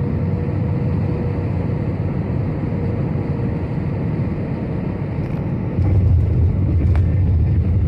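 Aeroplane cabin noise: the steady rumble of engines and airflow heard from inside the aircraft, growing louder and heavier about six seconds in.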